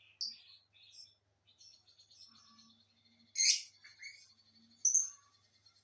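A pair of lovebirds chirping and chattering, with two loud, sharp shrieks about three and a half seconds in and again a second and a half later.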